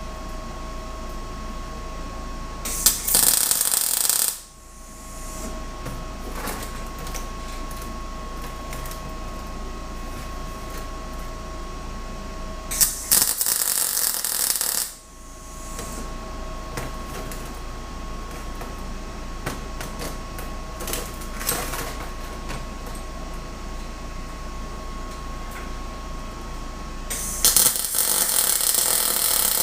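Three short bursts of MIG welding, each crackling for about a second and a half, over a steady shop hum, with a few light ticks between them.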